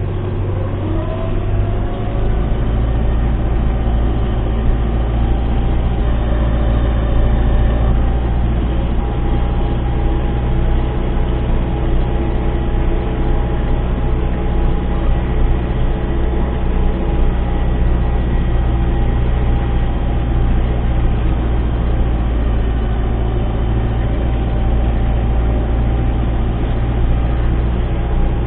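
MTZ-892 tractor's diesel engine running steadily while pulling a seed drill. About a second in, its pitch rises as it picks up revs, then it holds even.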